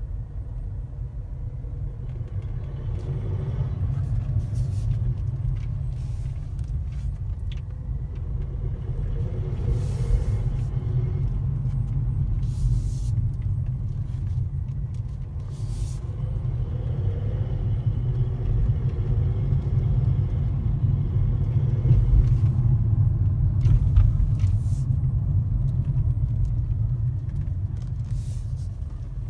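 Steady low rumble of a 2016 Mercedes A200d on the move, with short rattling clicks now and then: the rattle the owner is trying to track down.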